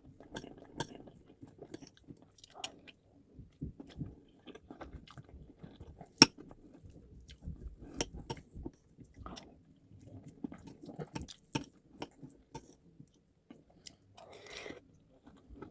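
Close-miked chewing and mouth sounds of a person eating white rice and stew: irregular small wet smacks and clicks, with one sharper click about six seconds in.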